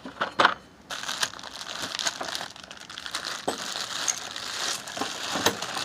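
Crinkling and rustling with a few sharp clicks: tools and their packaging being handled and moved about in a toolbox drawer.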